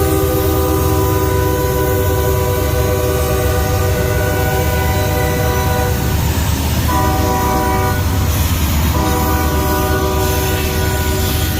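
Diesel freight locomotive's multi-tone air horn sounding: a long blast, a short one about seven seconds in, then another long one from about nine seconds in. A steady low rumble of the passing train runs beneath it.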